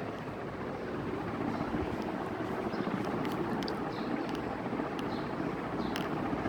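56-inch BRB ceiling fan running, a steady rush of air from its spinning blades, with a few faint light ticks.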